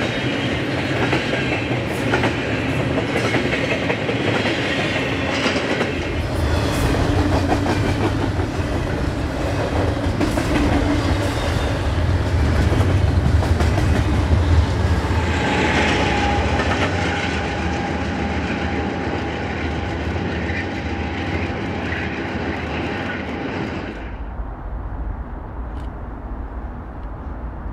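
Double-stack container freight train rolling past: a steady rumble with the clickety-clack of wheels over the rail joints and the rattle of the cars. The sound turns duller near the end.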